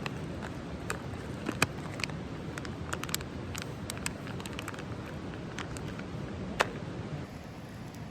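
Wood campfire crackling: irregular sharp pops and snaps, with two louder cracks about one and a half and six and a half seconds in, over a steady low rush.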